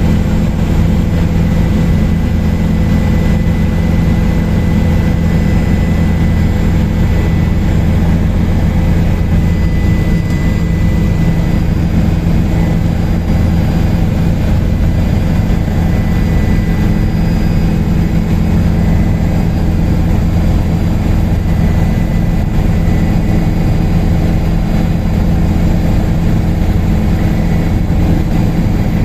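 Helicopter in flight, heard from aboard: a steady, unbroken drone of engine and rotor with a thin high whine over a low hum.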